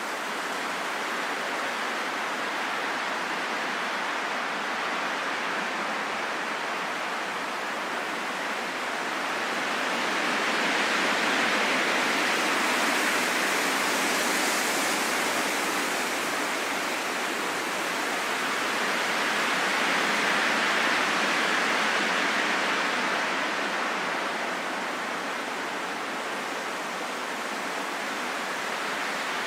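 Wind blowing steadily, a soft, even rushing noise with no low rumble. It swells slowly twice, about a third of the way in and again about two-thirds in.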